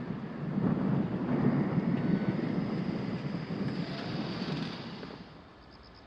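Train passing, a rumble of wheels on the rails that dies away about five seconds in.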